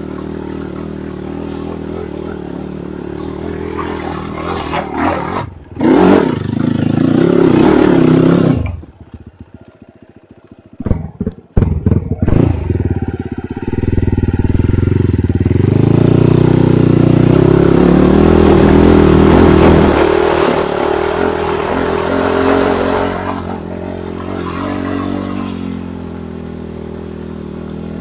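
Enduro dirt-bike engine revving hard under load on a rocky climb, rising and falling with the throttle. It drops away for a few seconds about a third of the way in, with a few sharp knocks, then pulls hard again and eases off near the end.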